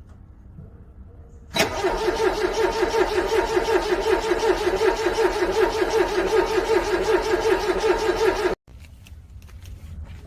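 Car engine being cranked by its starter motor in freezing cold without catching: a fast, even rhythmic cranking that begins about a second and a half in and cuts off suddenly near the end.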